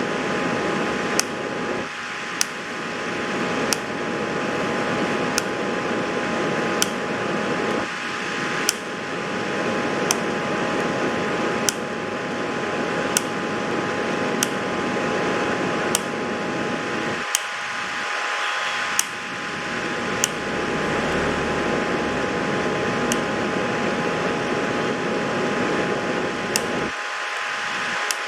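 Steady fan-like whirring with a constant faint hum, and a sharp click repeating about every one and a half seconds.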